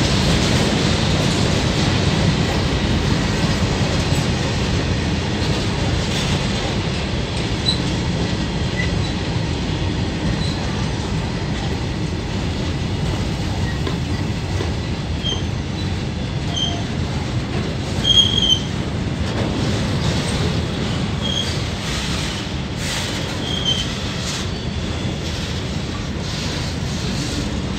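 Freight train of covered box wagons rolling past, a steady heavy rumble of wheels on rail. From about halfway through, short high-pitched wheel squeals cut in, the loudest a little past the middle, as the train slows from speed.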